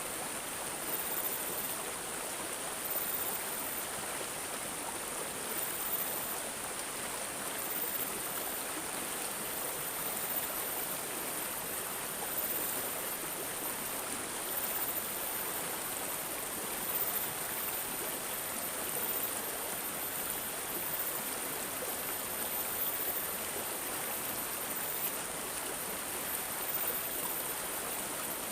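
Stream water gurgling and rushing steadily, with a thin, high chirping that recurs faintly above it.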